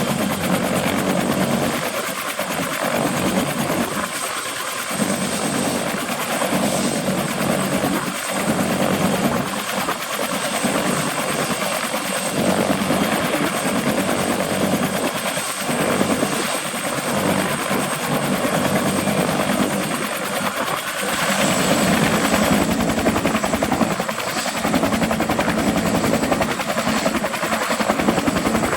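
Bell 212 Twin Huey helicopter running with its twin PT6T turboshaft engines and two-blade rotor turning: a steady, loud rush of turbine and rotor noise with a thin high whine, growing a little louder about two-thirds of the way through.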